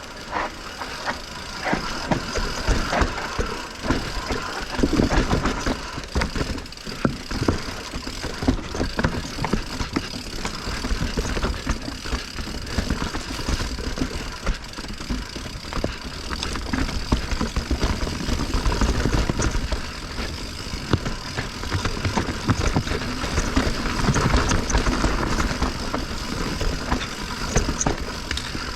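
Mountain bike descending a rough technical trail: tyres rattling over rocks and roots, with constant knocks and clatter from the bike and a low rumble underneath.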